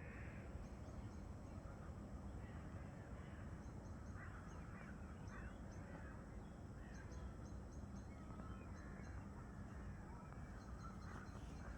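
Birds calling outdoors: scattered mid-pitched calls, and short high chirps in quick runs of four or five that repeat every few seconds, over a steady low rumble.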